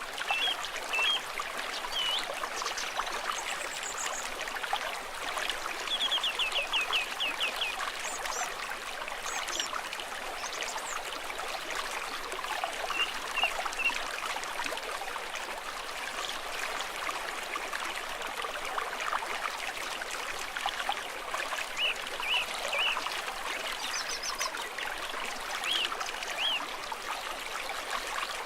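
A small stream trickling and babbling steadily, with birds chirping now and then above it, including a quick run of notes about six seconds in.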